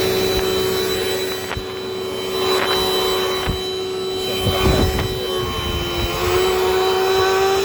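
Dirt Devil Dynamite Plus vacuum cleaner running with a steady motor whine, with a few low knocks about halfway through and a brief dip in pitch about six seconds in before it recovers.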